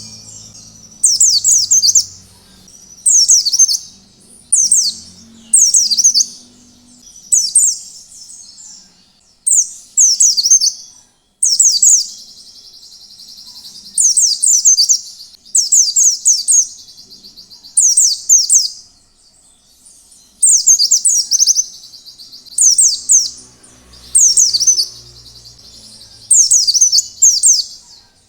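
White-eye (pleci) singing in the 'ngalas' style: short high phrases of quick falling notes, repeated every one to two seconds, some running on into a brief trill.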